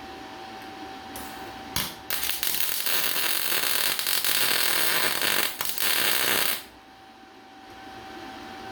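Welding arc crackling and hissing in one continuous bead of about four and a half seconds, with a short break near the end, starting after a click and cutting off abruptly, over a steady background hum.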